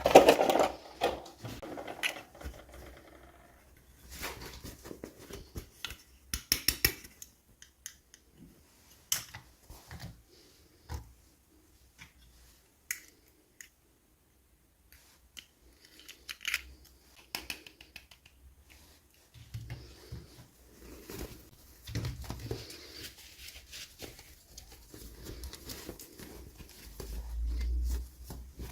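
Irregular small clicks, taps and rustles of toy packaging being handled and opened, with a louder burst of handling at the start.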